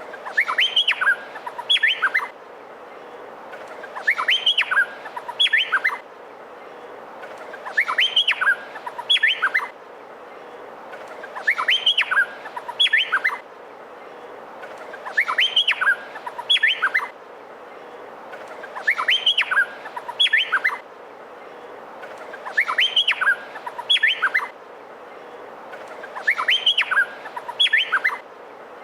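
Male Meliphaga honeyeater (cucak pantai) singing: a short phrase of loud, sharp whistled notes that sweep up and down, repeated about every four seconds over a steady background hiss.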